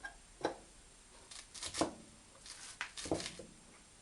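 Metal knocks and clinks of hand tools on a ball-joint puller clamped on a VAZ-2110 front steering knuckle, used to press out a seized ball joint. There are three sharper knocks about 1.3 s apart, each ringing briefly, with lighter clicks between them.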